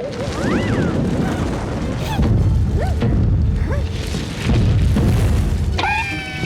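Cartoon sound effect of a loud, sustained rumble under music, with a few short squeaky chirps early on and a held chord near the end.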